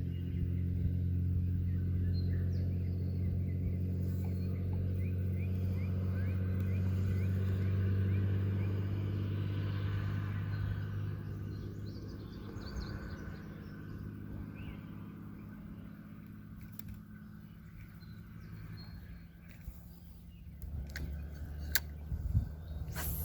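An engine running with a steady low hum that fades away over the second half. Birds chirp faintly, and a few sharp clicks come near the end.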